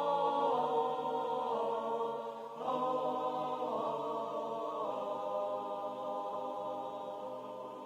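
Slow, sustained church music with a choir-like sound, moving from one held chord to the next every second or so. A new chord swells in about two and a half seconds in, and the music gradually softens.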